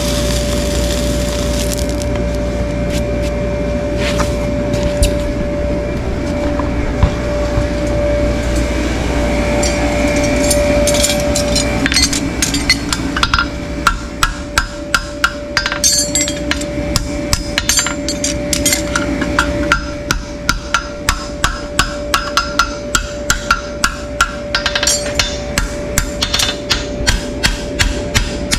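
Hammer tapping repeatedly and quickly, about two to three sharp blows a second with a slight metallic ring, starting about halfway through. A steady machine hum with a constant tone runs underneath.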